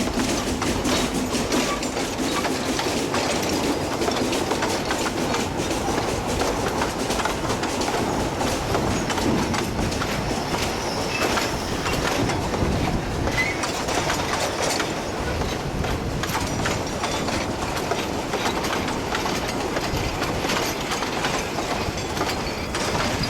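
Narrow-gauge coal train hauled by a C2 steam locomotive rolling by, its wheels clattering steadily over the rail joints with a light squeal.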